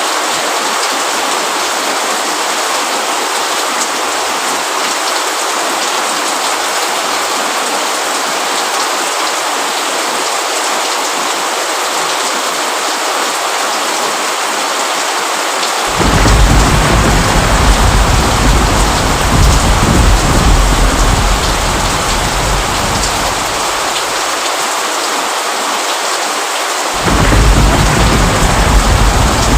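Steady rain falling, with a deep rumble of thunder that comes in suddenly about halfway through, dies away, and cuts back in sharply near the end.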